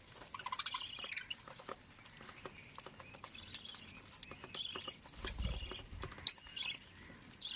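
Small cage birds chirping in an aviary: many short, high chirps overlapping, with scattered light clicks and scratching. One loud, sharp chirp stands out about six seconds in.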